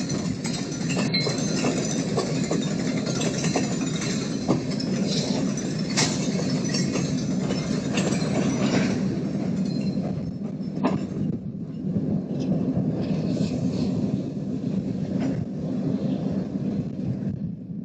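Work train moving slowly, a steady rumble from the train with sharp metallic clinks and clanks of couplers and slack now and then, as the cars are stretched after coupling to check that the couplers have locked.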